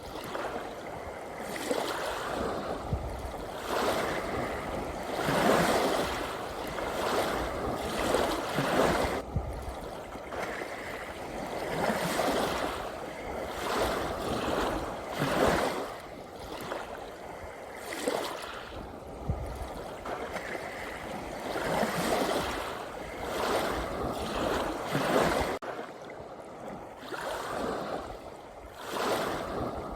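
Ocean waves breaking and washing in, surging and fading every two to four seconds, with a low rumble under some of the bigger surges. The rumble drops out abruptly near the end.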